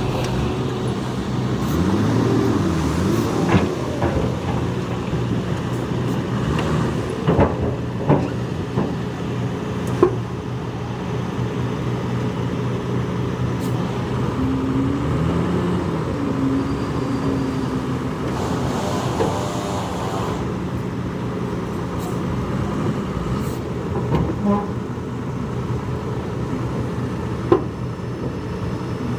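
Heavy diesel earthmoving machinery running steadily, its engine pitch rising and falling several times as it is worked, with a few sharp clanks and knocks.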